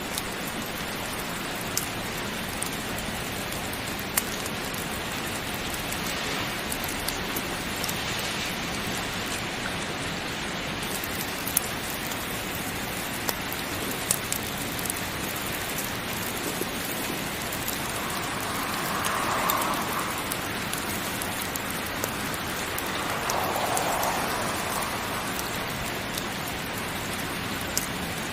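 Heavy rain falling steadily, with scattered sharp ticks. It swells briefly louder twice in the second half.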